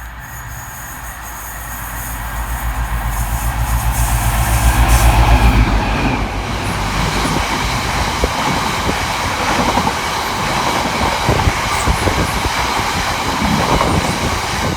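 Class 60 diesel freight locomotive approaching, its low engine rumble building to its loudest about five seconds in. Its train of freight wagons then clatters steadily past over the rail joints, with some wheel squeal.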